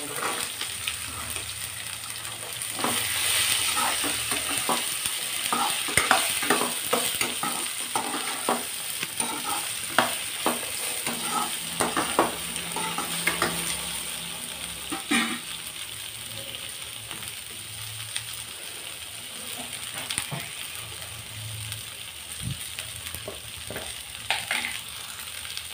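Sliced snake gourd frying in hot oil in a kadai, with a swell of sizzling about three seconds in as the pieces go in. Then a slotted metal spatula scrapes and clicks against the pan as the gourd is stirred, and the sizzle settles to a quieter hiss in the second half.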